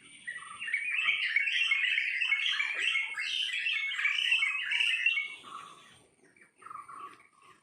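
Birds chirping: a dense chorus of many quick chirps that thins out after about five seconds to a few scattered calls.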